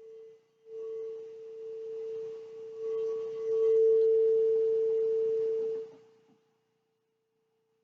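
Singing bowl tuned to the note A, struck and then played so its single pure tone swells steadily louder over a faint rasping hiss. About six seconds in the hiss stops and the tone rings on faintly.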